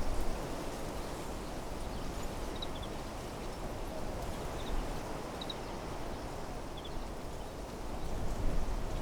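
Wind blowing steadily through desert trees, a continuous rushing, with gusts buffeting the microphone at the start and again near the end. Short, faint, high double chirps from a small bird come every second or two over the wind.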